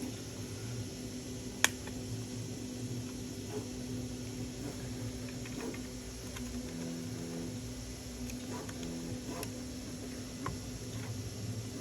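Light clicks and ticks of small model parts and a screw being handled during assembly, with one sharp click about a second and a half in, over a steady low hum.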